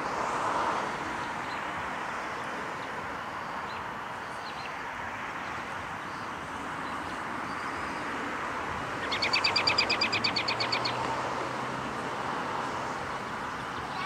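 A songbird sings a rapid, high trill of evenly spaced notes, about ten a second, lasting a little under two seconds, about two thirds of the way through. A few faint short chirps come from other birds over a steady background hiss of outdoor ambience.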